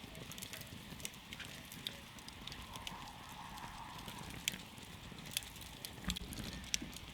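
Campfire burning, with sharp irregular crackles and pops over a steady low rumble and hiss of the flames; a few louder pops stand out in the second half.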